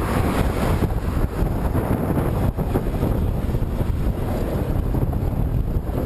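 Headwind buffeting the microphone: a loud, steady low rumble of wind noise.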